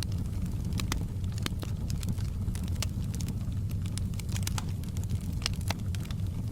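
Wood fire in a fireplace crackling, with irregular sharp pops and snaps over a steady low rumble of the burning flames.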